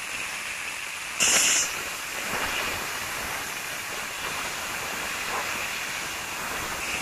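Pui (Malabar spinach) stems and garlic sizzling steadily in hot mustard oil in a kadai while being stirred, with a short, louder hiss a little over a second in.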